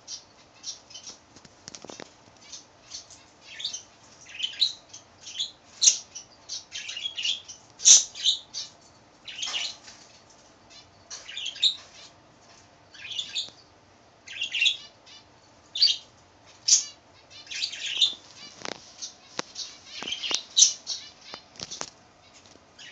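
Caged pet birds chirping in short, irregular high-pitched calls, several a second at times.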